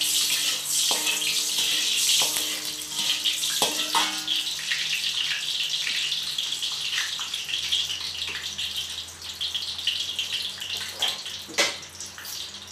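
Blended spice paste frying in hot cooking oil in a wok: a loud, crackling sizzle that slowly dies down. A few knocks of a utensil against the pan, some of them ringing briefly.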